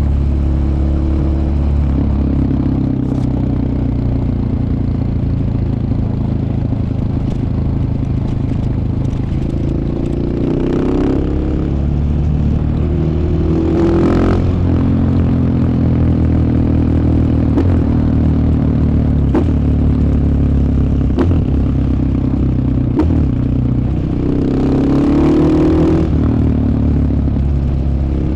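KTM 690 Enduro R's single-cylinder engine running under way. Its pitch rises three times as it accelerates: about ten seconds in, around fourteen seconds, and again near the end.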